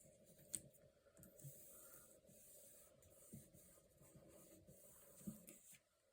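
Faint rustling and rubbing of paper and washi tape being laid down and smoothed onto a journal page, with a couple of light taps.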